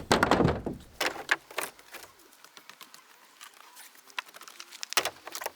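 A few sharp knocks and clatter in the first two seconds, then a run of faint, light clicks.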